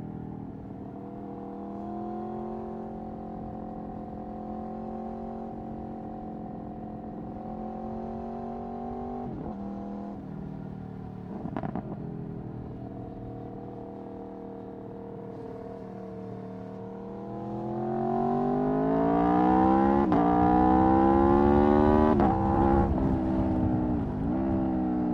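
Aprilia Tuono V4 1100's 65-degree V4 engine through an Akrapovic Racing exhaust, heard from the rider's seat. It runs at a steady part throttle with two quick dips in revs. About 17 seconds in it opens up, the revs and loudness climbing hard for several seconds, then the revs fall back with quick dips near the end.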